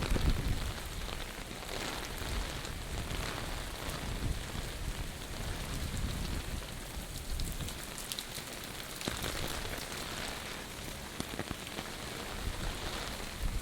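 Typhoon rain falling steadily: a continuous hiss with scattered drop ticks. Wind briefly buffets the microphone at the start.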